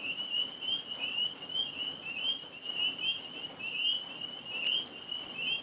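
Tree frogs calling in a chorus: short, high-pitched rising chirps, about three a second, overlapping continuously.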